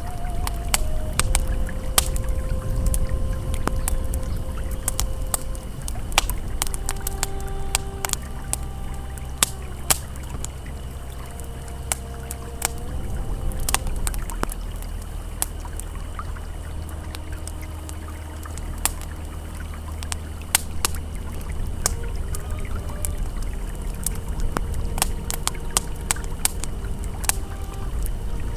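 Campfire crackling with frequent sharp pops over the steady rush of a flowing river, with soft sustained ambient tones that shift pitch every few seconds.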